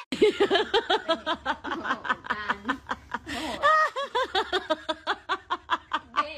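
A woman laughing in quick, repeated giggling bursts.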